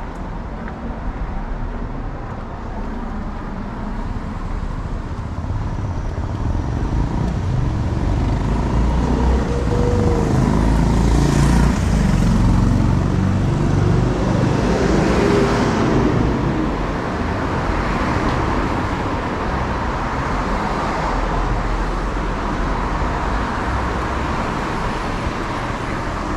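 Street traffic: motor vehicles running and passing on the road, with a steady low rumble that swells to its loudest about halfway through.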